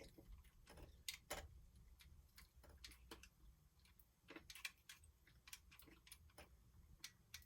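Near silence broken by faint, irregular clicks and taps.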